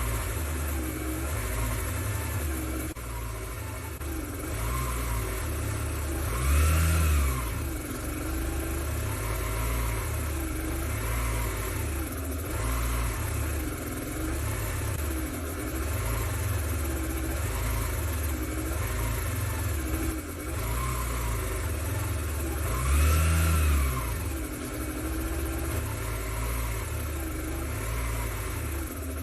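Engine revved over and over in short blips, its pitch rising and falling each time, with two bigger, louder revs about a quarter and three quarters of the way through.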